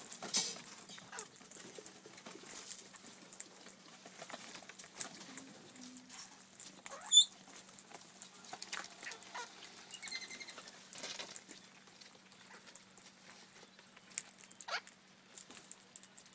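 Parrots feeding on seed, giving many small cracking, scrabbling clicks. About seven seconds in there is one short, loud, high bird call.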